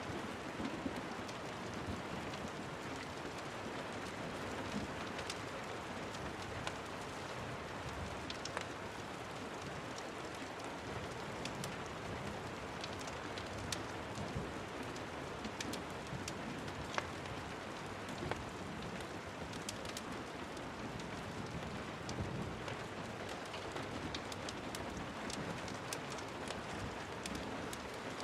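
Steady rain falling, an even hiss, with scattered sharp clicks throughout.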